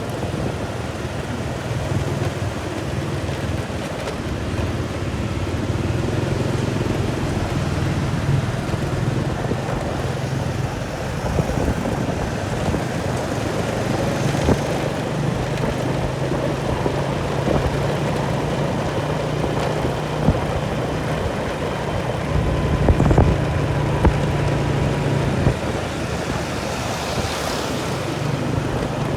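An engine running steadily with a constant low hum, with wind noise over it.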